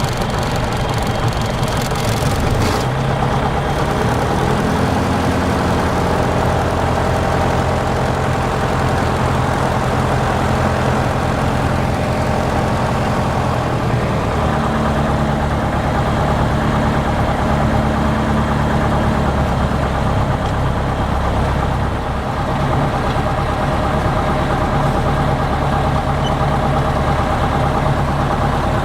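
Lycoming O-320 four-cylinder engine and propeller of a Zenair CH-300 running steadily at low power. Its pitch shifts about three seconds in and again around halfway and two-thirds of the way through. A high hiss dies away in the first few seconds.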